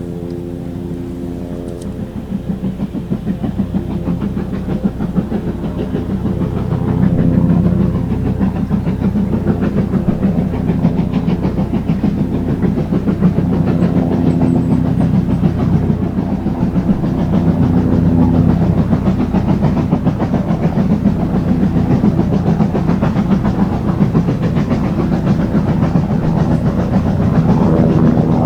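Steam locomotive working a train past, with a rapid, even beat and heavy clatter that get louder a few seconds in and then stay loud.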